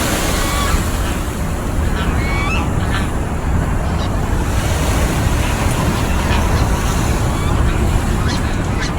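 A steady loud rush of surf or wind, with short bird calls now and then over it.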